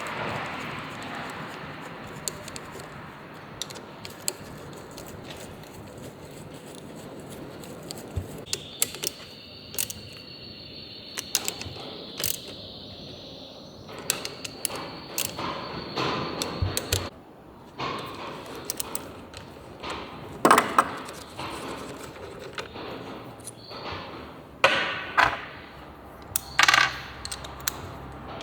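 Metal tools and small engine parts clinking and knocking at irregular intervals during hands-on engine work, with the louder knocks in the second half.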